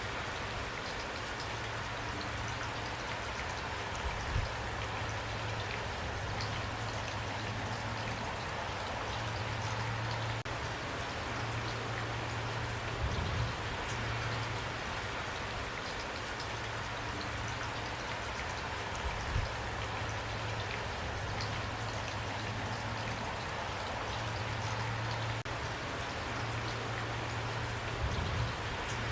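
Steady rain falling, an even hiss of many drops with a low steady hum underneath. A few louder single drops or knocks stand out, about every six to nine seconds.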